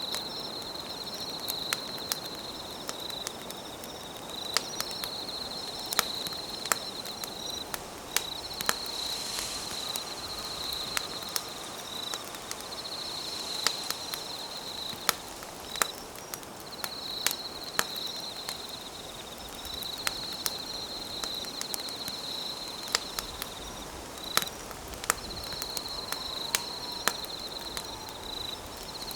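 Campfire crackling, with frequent sharp pops over a soft hiss, and an insect trilling high in phrases of a few seconds with short breaks between them.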